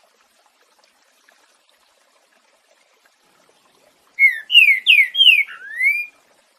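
Green-winged saltator (trinca-ferro) singing one short phrase of loud, clear whistled notes about four seconds in, the last note rising: the 'boiadeiro' style of its song.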